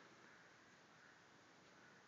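Near silence: faint, steady background hiss with no distinct sound.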